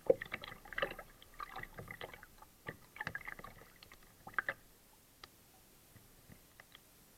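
Kayak paddle strokes splashing and dripping in the water, in irregular bursts, stopping about four and a half seconds in; after that only a few faint drips or ticks.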